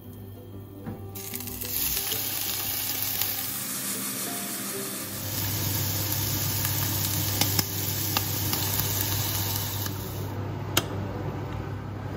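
Food sizzling as it fries in a hot pan, with a few sharp clinks of a cooking utensil. The sizzling starts about a second in and eases off about ten seconds in, with a low steady hum beneath it from about the middle.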